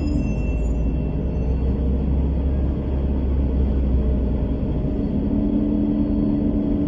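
A bus running: a steady low engine and road rumble, with a steady engine hum joining about five seconds in.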